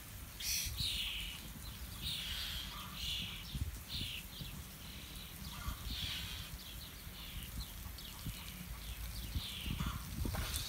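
Birds chirping again and again in short calls over a steady low rumble.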